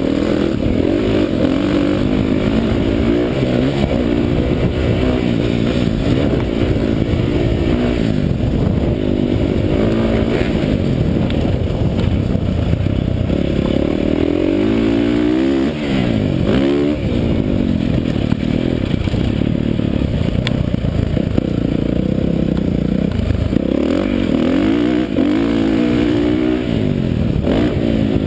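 Dirt bike engine being ridden hard, its pitch climbing and dropping over and over as the throttle is opened and shut and the gears change.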